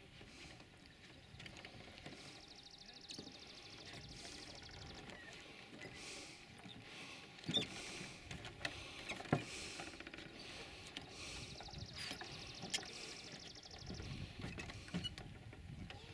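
Hot mud pot bubbling, with scattered wet plops and pops, two louder ones about halfway through. A high, rapid buzzing comes in twice.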